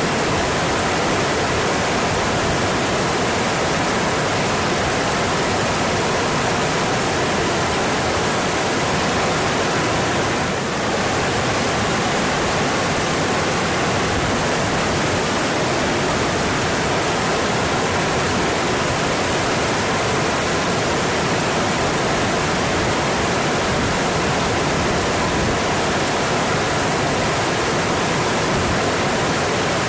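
Mountain stream rushing steadily, with a brief slight dip in level about a third of the way through.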